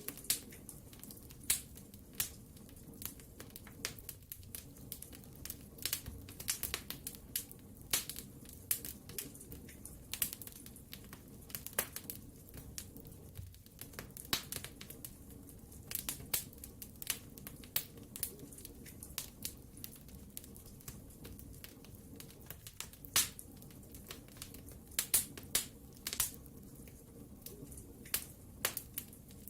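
Wood fire burning in a fireplace, crackling: irregular sharp snaps and pops, at times several in quick succession, over a low steady background.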